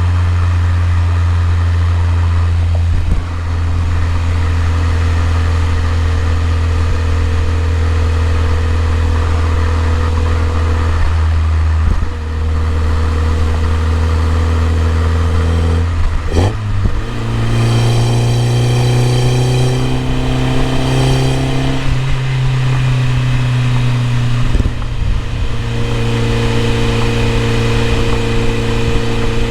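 BMW E30 M3's four-cylinder engine running steadily, dipping briefly twice. About sixteen seconds in its pitch jumps higher and glides for several seconds, then it settles into steady running again.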